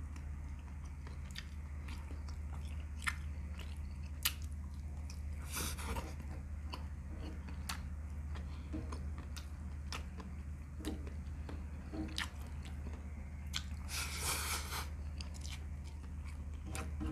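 Close-up chewing and biting of sauced meat and rice eaten by hand: scattered mouth clicks, with two longer, louder chewing bursts about 6 seconds and about 14 seconds in.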